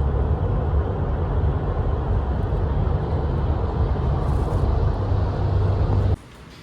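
Steady low rumble of road and engine noise from a moving car, which cuts off abruptly about six seconds in.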